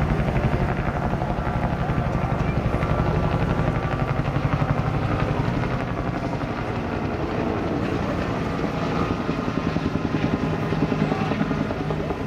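Bell UH-1 Huey helicopter flying by, its Lycoming T53 turboshaft running under the rhythmic beat of its two-bladed main rotor.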